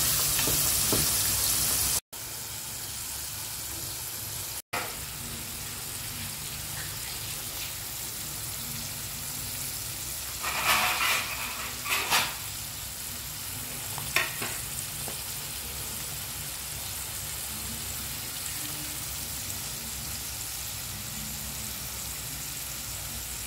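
Whole egg squid deep-frying in hot oil over high heat, a steady sizzle. It is louder for the first couple of seconds, drops out briefly twice, then settles into a quieter sizzle with a few louder crackles about halfway through.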